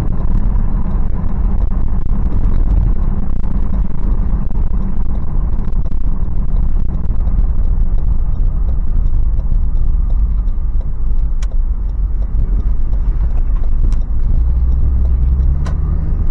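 Toyota 4Runner's 4.0-litre V6 running under way, a steady low rumble of engine and road noise heard from inside the cabin. A deeper engine note swells near the end.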